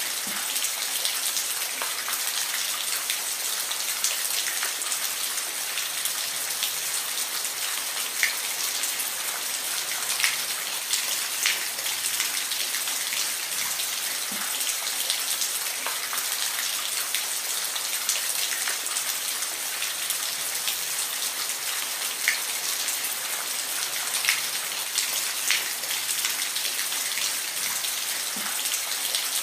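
Steady rain falling, with scattered individual drop hits standing out as sharp ticks above the even hiss.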